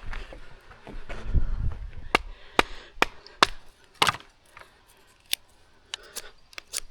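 Kindling wood being worked for a campfire: a string of sharp wooden cracks and knocks, quick at first, about two a second, then more spread out.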